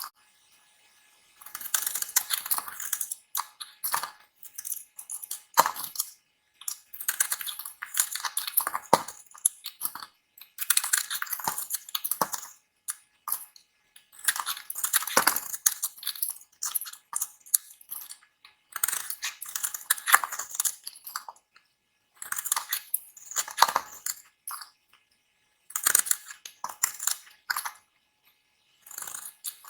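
A knife cutting through dry bar soap, giving crisp, crumbly crunching. The crunching comes in runs of one to two seconds, about every three seconds, with silent gaps between.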